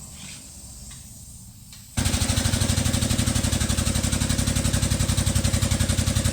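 Pneumatic impact wrench hammering rapidly in one long burst, starting suddenly about two seconds in, as a tractor wheel is being changed.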